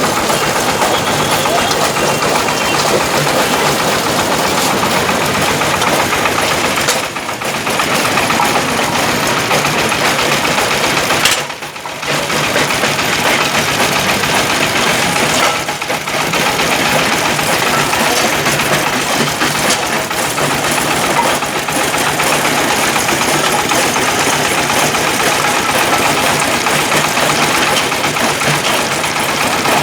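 Engine-driven brick-breaking machine running loudly and steadily, a dense mechanical clatter over the engine's drone. Three times in the first half it briefly drops in level.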